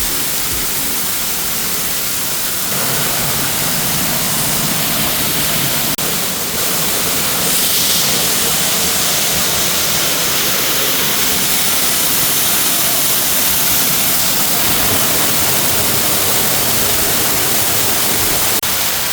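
Loud, steady rush of a waterfall heard from right under the falling water, getting louder about three seconds in.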